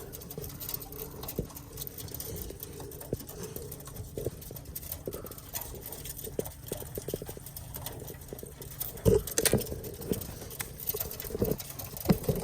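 Handling noise of a camera being set up and repositioned: scattered light taps, clicks and rustles, with a cluster of louder knocks about nine seconds in and again near the end.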